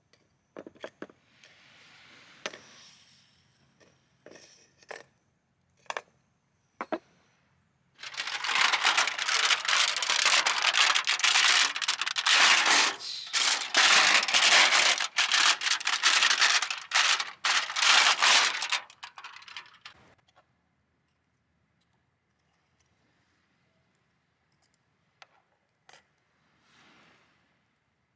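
Gear being handled: a few scattered clicks and knocks, then about twelve seconds of loud, dense crinkling and rustling, as of a bag or sheet being crumpled or packed, which stops about twenty seconds in, followed by a few faint clicks.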